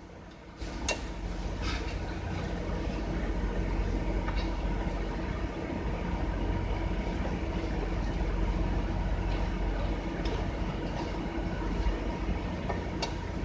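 Scrambled eggs cooking in a stir-fry pan, with a steady sizzle that starts about half a second in and a few light clicks of the spatula, over the low steady hum of a 3500-watt generator running.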